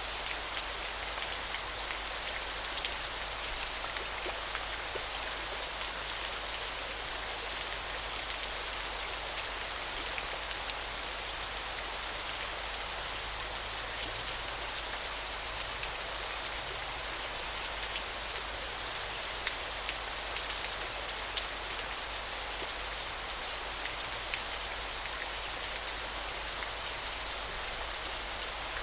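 Steady rushing and splashing of a flowing river. A high buzzing trill sounds over it in three short bursts in the first few seconds, then returns louder and longer from about two-thirds of the way in.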